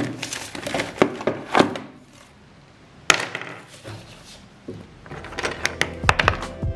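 Irregular knocks and clicks, like hard objects being handled and set down, with a sharp knock about three seconds in and a quick run of clicks near the end.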